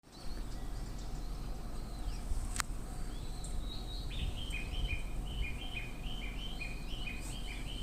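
A steady low outdoor rumble. A single sharp click comes about two and a half seconds in, and from about four seconds in a bird chirps a fast, repeated two-pitch phrase.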